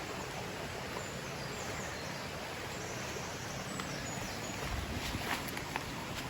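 Steady background hiss of outdoor ambience with faint, high bird chirps around the middle, and a few rustles and clicks about five seconds in.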